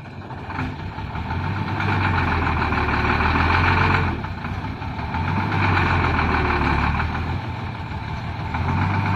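Hino six-cylinder diesel truck engine running, its sound swelling and easing in three surges of a couple of seconds each.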